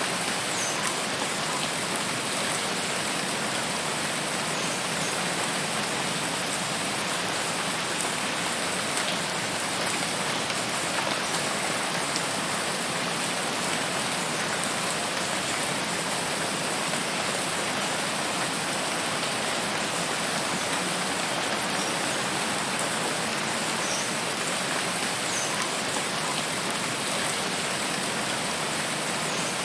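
Steady rain falling, an even, unbroken hiss of drops without let-up.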